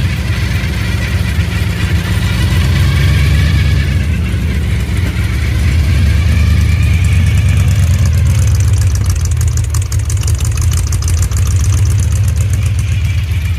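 Engine of a 1966 Mustang funny car tribute running at a steady, loud idle, with a fast high ticking laid over it for a few seconds after the middle.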